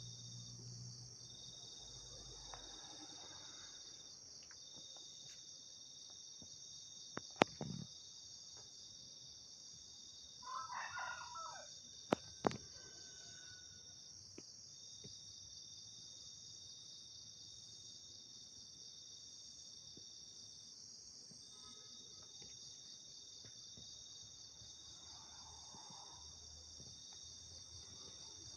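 Steady night chorus of crickets and other insects, with a rooster crowing briefly about ten seconds in. A few sharp clicks sound before and after the crow.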